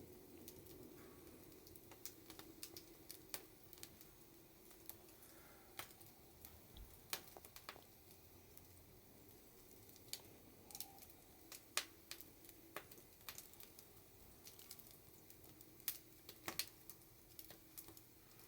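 Campfire crackling: wood snapping and popping in irregular sharp clicks, some louder than others, over a quiet background.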